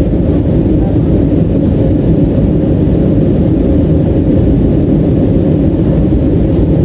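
Steady, loud roar of a Boeing 737-300's CFM56-3 jet engines and rushing air, heard inside the passenger cabin, with a faint steady hum above the low rumble.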